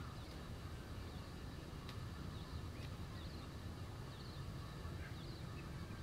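Faint short high chirps of small birds, several times over a steady low rumble, with one sharp click about two seconds in.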